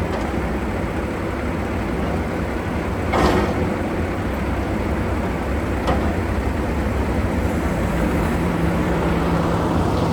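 Heavy truck running steadily under way, a constant low engine drone with road noise, with a short clank about three seconds in and a sharp click about six seconds in.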